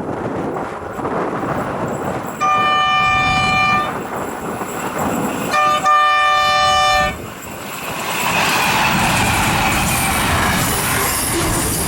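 Freight locomotive horn: one long blast, then a short toot and a second blast, over gusty wind. The rumble and wheel noise of the train then build up and run on loudly.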